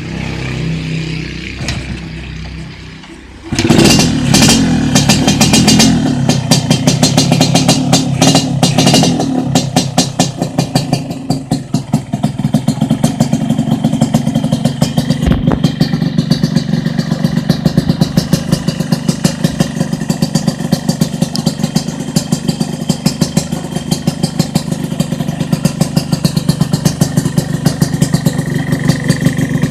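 Yamaha RX-King two-stroke single-cylinder motorcycle engine through an aftermarket under-slung exhaust, catching suddenly about three and a half seconds in and revved for several seconds, then settling to a steady, fast, crackling idle.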